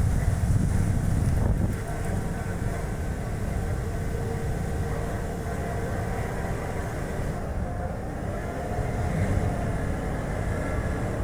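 Strong wind buffeting the action camera's microphone over the steady road and tyre noise of a Chevrolet Spark light car driving. A louder gust for the first couple of seconds, after which the rumble eases slightly and holds steady.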